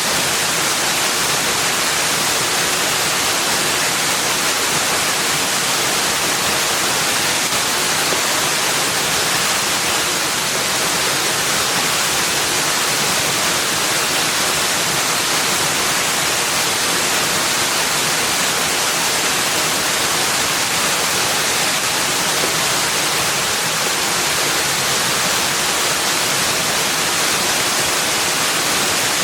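Steady rushing of falling or flowing water, an even bright hiss with little low end and no other events.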